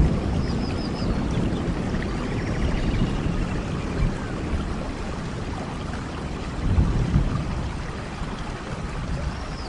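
Steady rain with low rumbling swells like wind gusts, easing off toward the end, and a few faint high chirps near the start and near the end.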